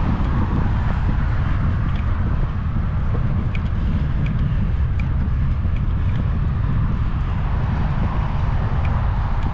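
Strong wind buffeting the microphone during a bike ride: a steady, loud low rumble with a faint hiss above it.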